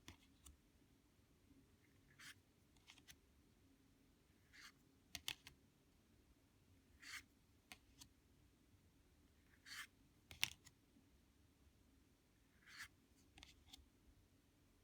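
Lenormand cards being flipped through one at a time: a faint, soft slide of card every two to three seconds, with a few sharp little clicks among them, the loudest a little past halfway.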